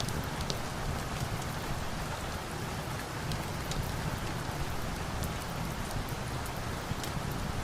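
Steady rain falling, a dense even hiss with a low rumble beneath and scattered sharp ticks throughout.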